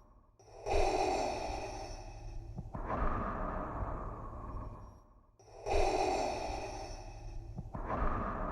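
Darth Vader's mechanical respirator breathing sound effect: slow, regular hissing breaths through the mask, in and out, each about two seconds long. Two full breath cycles repeat, with a brief gap before each.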